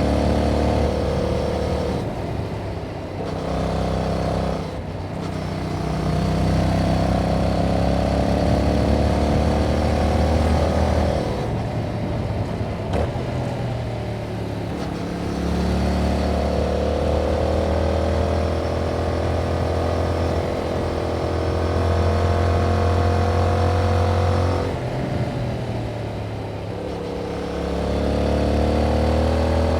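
2021 Yamaha MT-07's parallel-twin engine through its stock exhaust, pulling hard several times with the revs climbing, then dropping back at shifts and when the throttle is eased off. Wind and road noise run under it.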